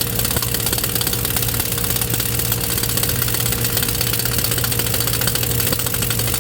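A motor or engine running steadily, with a fast, even pulsing.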